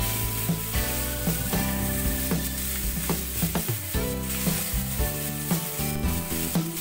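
Crushed green chilli and chopped aromatics sizzling in hot oil in a non-stick frying pan, stirred with a silicone spatula that scrapes and taps across the pan.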